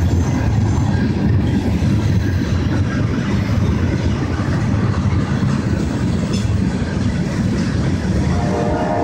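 CSX freight train's tank cars rolling past on the rails: a steady low rumble of wheels and trucks on track.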